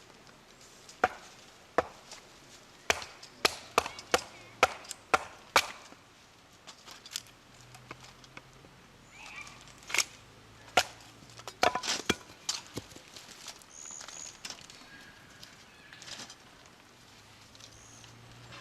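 A series of sharp chopping strikes on wood: about nine quick chops in the first six seconds, then a few more spaced out later.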